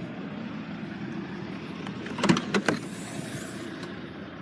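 The Mercedes ML320's tailgate being opened: a quick run of three clicks and knocks from the latch about two seconds in, then a brief hiss, over a steady background rumble.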